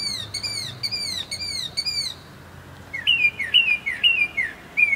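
A bird singing loudly at night. It gives a quick run of repeated downslurred chirps, falls silent for about a second, then switches to a different repeated phrase of two-part notes.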